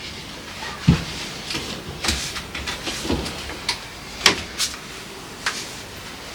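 Irregular knocks and light clatters of kitchen items being handled and set down. There are about half a dozen distinct knocks, the sharpest about a second in and just after four seconds.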